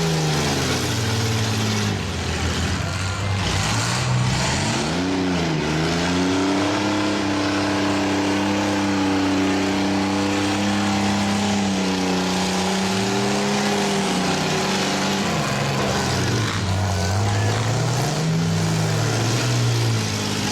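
Demolition derby mini truck and minivan engines revving hard, the pitch swinging up and down as they push. One engine is held at high revs for several seconds in the middle, drops away, then climbs again near the end.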